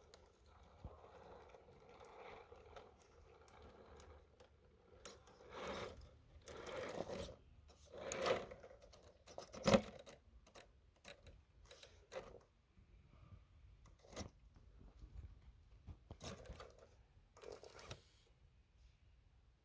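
1/10-scale Traxxas TRX-4 Sport RC crawler working over rocks and dirt: faint, irregular scraping and crunching with scattered knocks, the sharpest one about ten seconds in.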